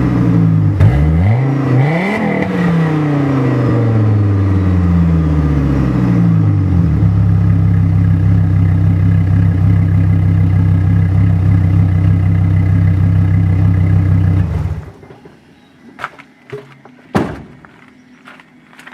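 2005 Chevy Colorado's 3.5-litre inline five-cylinder engine breathing through a Thrush welded cat-back exhaust with turn-down tips, giving a throaty sound. The revs fall, blip up once and drop back into a steady idle, and then the engine cuts off near the end, followed by a few short knocks.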